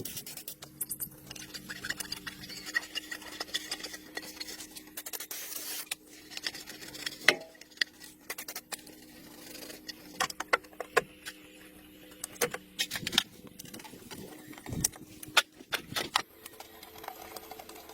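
Irregular light clicks and metallic taps, as of small metal parts or tools being handled, over a faint steady hum.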